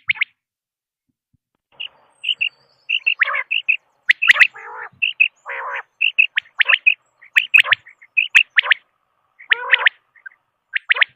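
Quail calling: quick groups of short, high chirping notes, mixed with a few longer, lower rasping notes. It starts after a short pause about a second and a half in.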